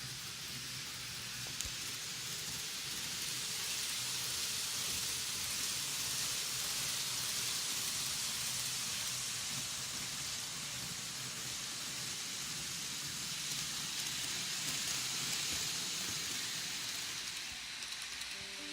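Model train running on the track, its wheels and motor making a steady hiss that swells for most of the run and eases off near the end.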